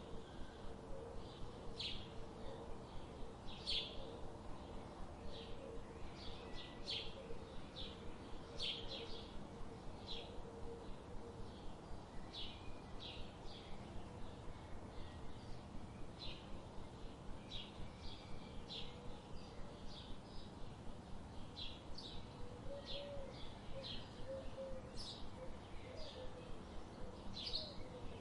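Songbirds chirping: short, high chirps one or two at a time, irregularly spaced, over a steady low background hiss.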